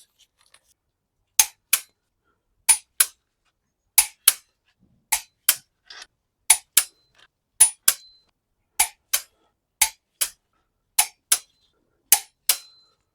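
Click-type torque wrench clicking off as the cylinder head bolts are tightened to 60 newton metres, each bolt reaching its set torque. Ten sharp double clicks, one about every second.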